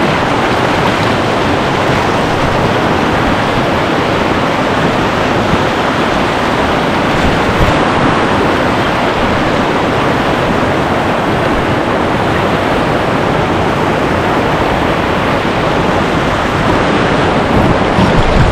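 Whitewater rapid rushing steadily and loudly, close to the microphone.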